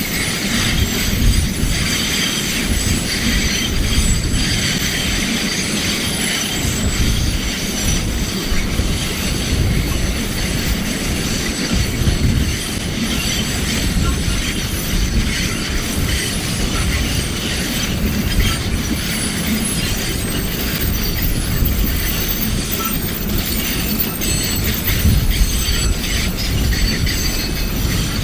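2 ft gauge sugar cane train rolling along the track: a steady low rumble of the wagons with thin, high-pitched wheel squeal and clacking of wheels on the rails.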